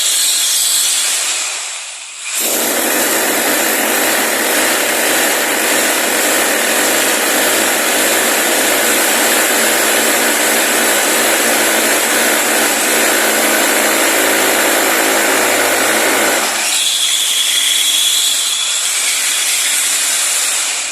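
A power tool running steadily, cutting out briefly about two seconds in and starting again, then stopping about three-quarters of the way through, after which a thinner sound with a high whine carries on.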